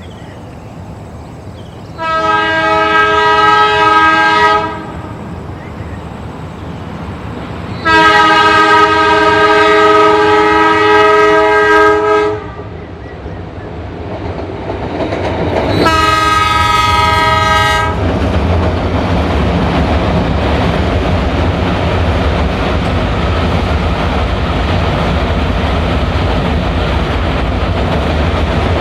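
Metre-gauge train's horn sounding three blasts, a chord of several notes, the middle blast the longest at about four seconds. After the third blast the train passes close by with a steady heavy rumble and wheel clatter.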